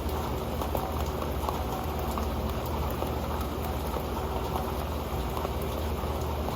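Rain falling steadily on an old pan: a dense, even patter with scattered single drop ticks.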